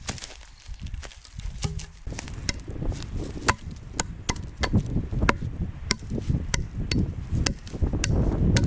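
Hand tool striking wood over and over, sharp blows about two a second starting about two seconds in, some with a brief high metallic ring.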